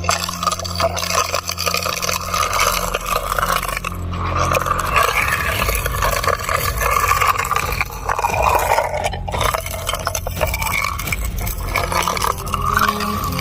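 Sand and gravel being sucked up through a siphon gold-sluice intake with water, a continuous gritty scraping and clatter of many small stones.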